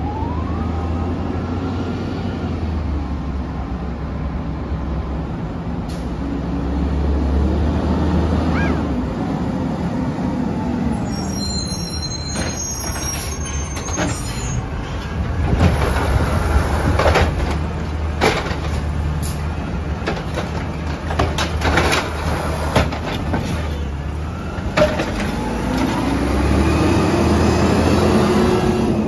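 Peterbilt 320 garbage truck's diesel engine running, revving up and back down twice, near the start and near the end. Through the middle stretch there is a run of sharp knocks and metal bangs.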